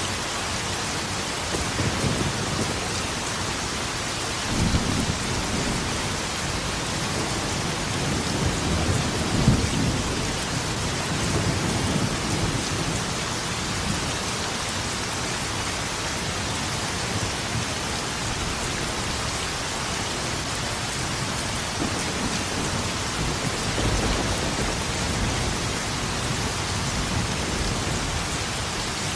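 Steady heavy rainfall with thunder rumbling several times, the loudest rumble about nine seconds in.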